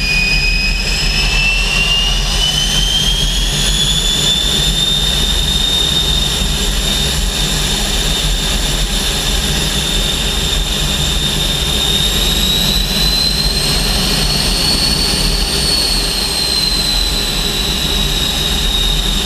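Turbojet engine of an L-29 Delfín jet trainer running on a ground run-up over a steady rumble. Its high turbine whine climbs in pitch over the first few seconds as the engine speeds up, holds steady, then rises again and eases back down near the end.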